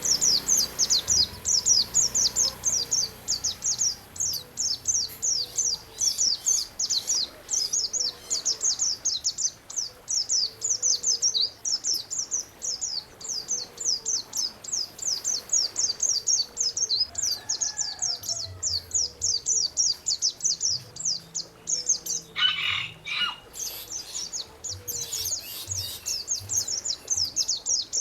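Songbird singing a fast, unbroken series of high, downward-sweeping notes, several a second, as a recorded bird-song training track. Beneath it a soft low note repeats every second or two, and a louder, lower call cuts in briefly about 22 seconds in.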